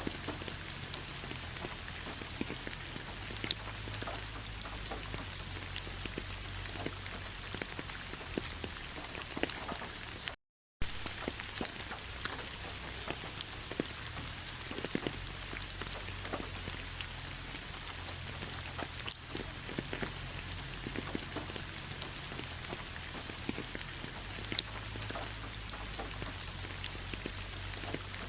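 Rain falling on fallen leaves: a steady hiss dotted with many small drop ticks. The sound cuts out completely for a fraction of a second about ten seconds in.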